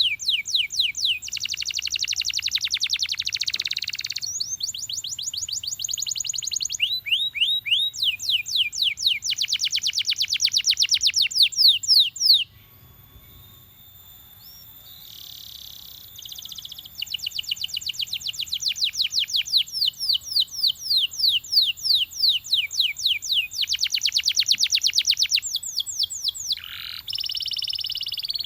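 Belgian canary singing in fast trills: long runs of rapidly repeated, downward-sweeping high notes, changing from one tour to the next. The song breaks off about twelve seconds in and starts again a few seconds later.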